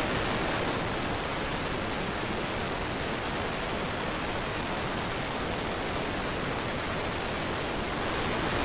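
Storm wind rushing in a steady, even roar with no clear gusts, cutting off suddenly at the end.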